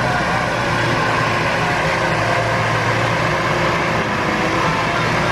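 Heavy vehicle engine running steadily under a dense, even wash of noise.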